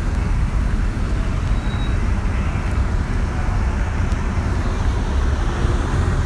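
Steady low rumbling noise with no distinct events, even in level throughout.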